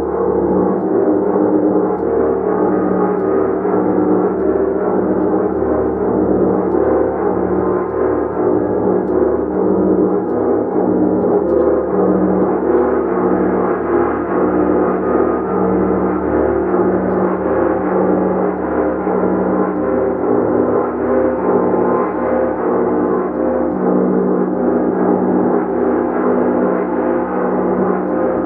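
A large gong played continuously as a sustained, loud wash of many overlapping tones, with its low tones pulsing in a steady, even beat.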